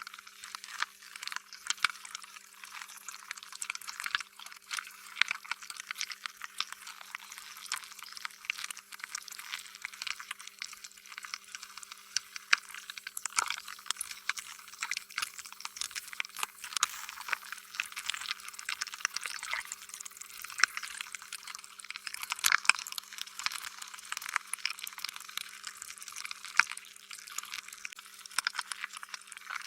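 Slime being squished and stretched by hand: a continuous, dense run of wet, sticky clicks and pops, over a faint steady hum.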